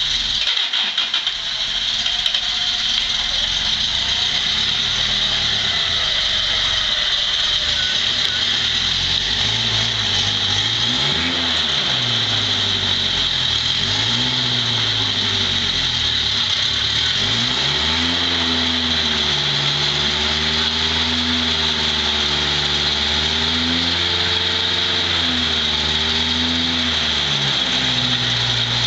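Toyota 4Runner's engine running under load, its revs rising and falling repeatedly from about ten seconds in. A steady high-pitched whine runs underneath.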